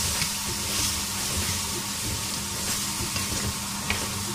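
Taro root slices sizzling steadily in hot oil and tomato sauce in a metal karahi.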